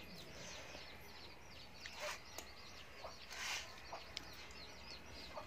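Small birds chirping steadily, a rapid run of short, high, falling chirps several times a second. Two brief hissing noises stand out about 2 and 3.5 seconds in.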